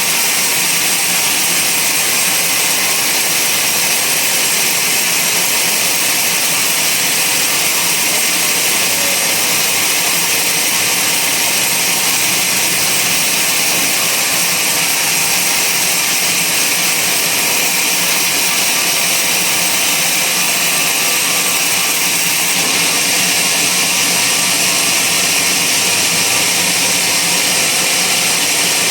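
Band sawmill running steadily as it saws through a large log, a loud, unbroken machine noise with a high whine.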